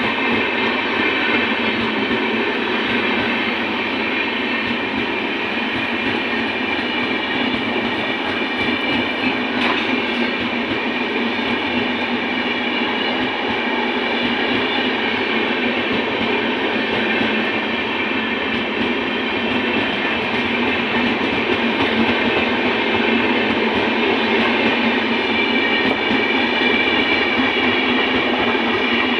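Express passenger train passing at full speed: a steady, loud rush of the coaches' wheels on the rails.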